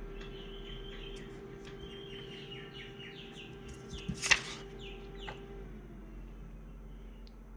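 Small birds chirping in a quick series of short falling notes, over a steady low hum that drops slightly in pitch near the end. One sharp click sounds about four seconds in.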